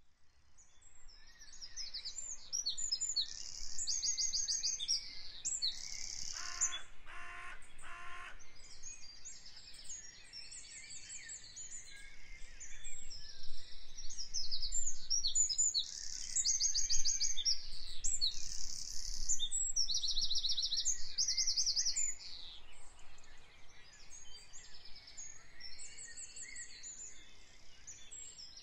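Many small birds chirping and singing, with overlapping high trills and calls throughout. Three lower pitched calls come in quick succession about seven seconds in.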